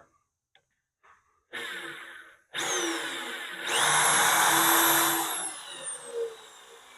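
Electric drill boring into the steel loader bucket. A short burst comes first, then from about two and a half seconds in it runs steadily, rising to a high whine and slowing with a falling pitch near the end.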